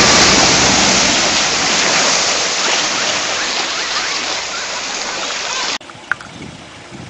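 Water rushing and splashing loudly around a 4x4 fording a river, easing off slowly. About six seconds in it cuts off abruptly to a much quieter scene with a single sharp click.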